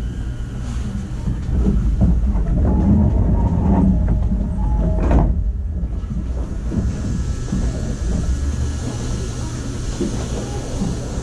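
Running noise inside a motor car of a JR 209-series electric train: a steady low rumble of wheels on rail with scattered rail-joint clicks. A brief loud burst of noise comes a little past five seconds in, and a high hiss builds from about six and a half seconds on.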